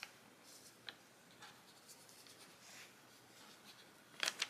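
Faint pen scratching on planner paper, with a few light ticks and a sharper double click near the end.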